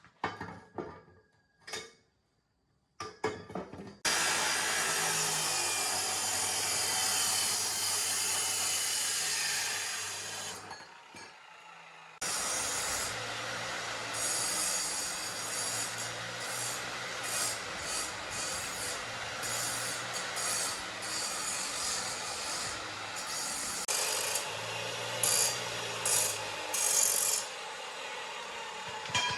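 A few light knocks, then a handheld power tool abrading a surface: a steady, loud gritty running with a low hum. It drops off for a moment about eleven seconds in, then starts again and runs on.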